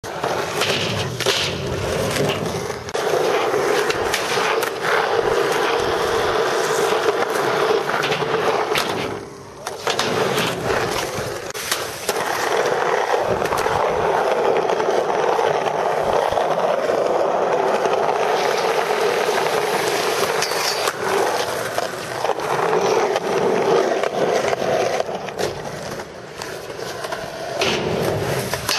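Skateboard wheels rolling steadily over hard ground, with scattered sharp clacks of the board popping and landing. The rolling drops off briefly about nine seconds in.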